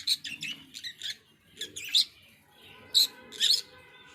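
Pet birds chirping: a string of short, high chirps, with brief pauses.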